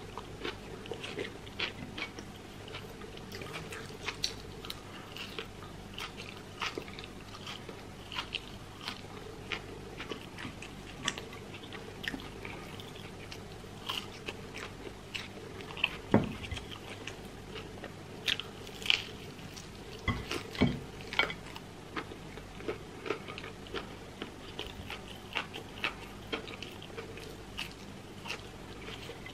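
Close-up chewing and crunching of crispy fried chicken and potato wedges, with irregular mouth clicks and crunches. There are a few louder bites about two thirds of the way through.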